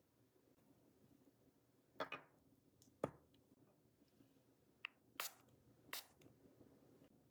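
A handful of short, sharp scraping strokes and clicks from manicure tools working on fingernails, spaced roughly a second apart, over a faint room hum.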